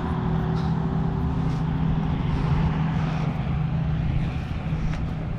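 Lamborghini engine running steadily at low revs as the car arrives, a deep even hum with no revving.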